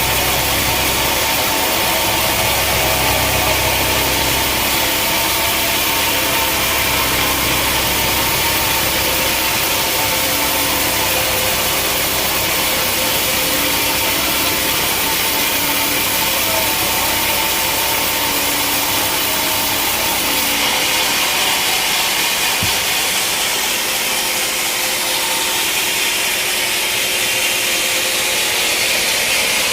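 Sawmill machinery running steadily, with its saw cutting through a log over the motor's hum. The low rumble drops away about three quarters of the way through.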